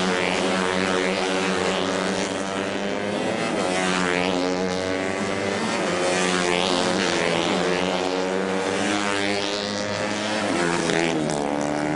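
Racing motorcycle engines revving hard, several at once, their pitches climbing and dropping over and over as the bikes accelerate and shift gears.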